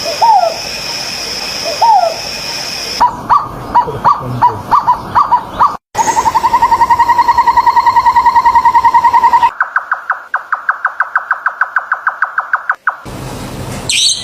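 A string of different bird calls cut one after another: first two rising whistled notes, then a run of short notes that speed up, then a long fast steady trill, then a quicker, higher series of pulses, each ending abruptly at an edit.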